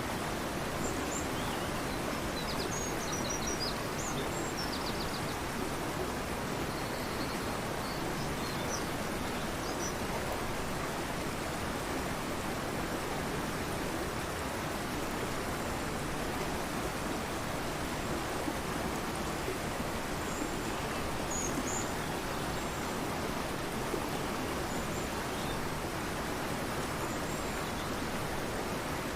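A fast-flowing river rushing steadily, with small birds chirping and trilling faintly over it a few times, most in the first ten seconds.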